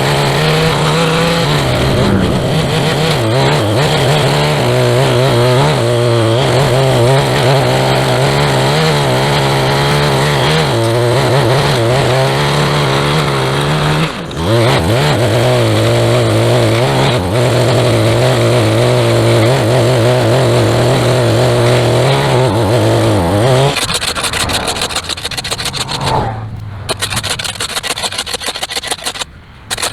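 A small gasoline engine on a handheld lawn tool runs at high speed. Its pitch repeatedly steps down and back up as it takes and sheds load, with a brief dip about 14 seconds in. It shuts off about 24 seconds in, and a fast, rough scraping follows.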